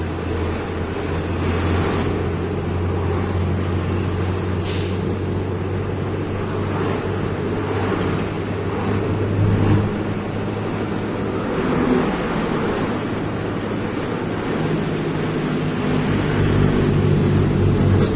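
Heavy diesel engine running steadily with a low, even hum, with wind noise on the microphone.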